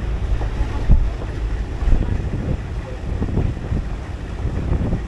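Wind buffeting the microphone: a low, uneven rumble with gusts about one and two seconds in.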